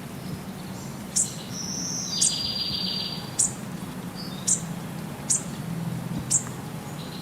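Birds chirping: short, sharp high chirps about once a second, with a buzzy trill lasting about a second a couple of seconds in.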